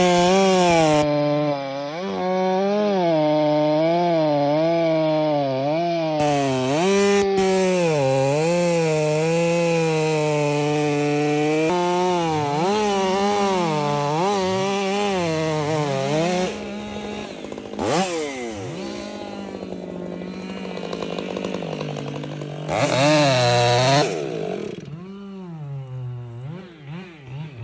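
Stihl MS 500i fuel-injected two-stroke chainsaw with a 25-inch bar cutting a big oak, its engine pitch wavering up and down as the chain loads and recovers in the wood. Past the middle the load eases and the revs sweep about. Near the end there is a brief loud rev, and then the revs fall away.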